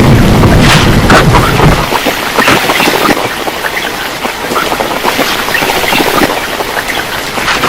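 Heavy storm rain falling hard, with many sharp drops spattering throughout. A strong low rumble of wind or thunder fills the first couple of seconds, then eases.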